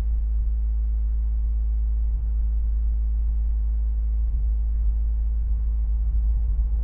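Loud, steady low electrical hum with faint overtones above it, unchanging throughout: mains hum on the recording, with faint brief rustles about two and four seconds in.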